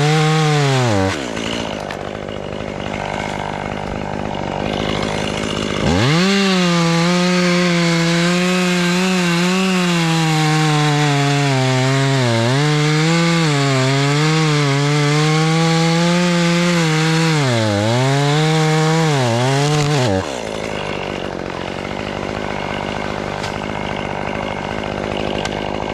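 Chainsaw at full throttle that drops back to idle about a second in. It revs up again about six seconds in and holds high speed for some fourteen seconds, its pitch sagging briefly several times as the chain loads up in the hickory wood. It then falls back to idle and stops at the very end.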